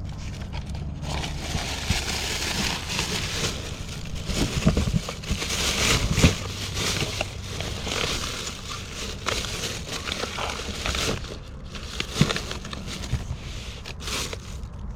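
Rummaging through trash: plastic bags and packaging crinkling and rustling, with sharp knocks as items are shifted. It starts about a second in and stops shortly before the end.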